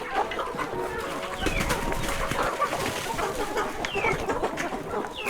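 A flock of chickens clucking, with several short high chirps over the top.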